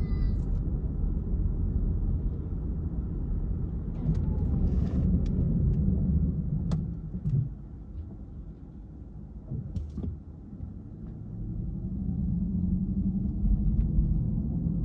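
Car driving, heard as a steady low road and engine rumble that drops quieter for a few seconds midway and then builds again, with a few sharp clicks.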